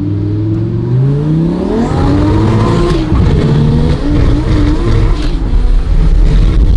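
Turbocharged Lamborghini Murciélago V12 under hard acceleration, heard from inside the cabin. The revs climb for about three seconds, drop at a gear change, and then the engine pulls hard again in the next gear.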